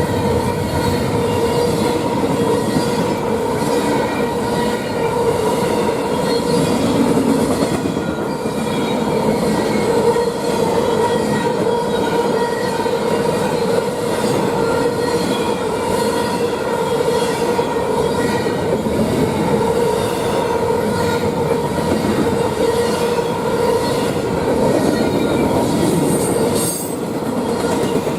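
Freight train rolling past, its wheels rumbling on the rails with a steady high squeal held throughout.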